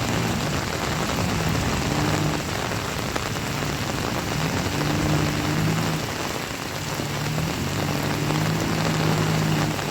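Heavy rain falling steadily, with a low engine hum that comes and goes several times.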